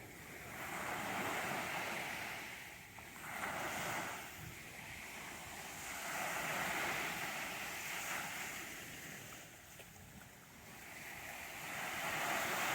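Small waves breaking and washing on a sandy shore, the surf swelling and fading again every few seconds.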